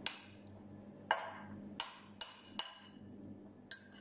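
Metal spoon clinking against a glass mixing bowl while stirring chicken in marinade: six sharp clinks at uneven intervals, each with a short ringing.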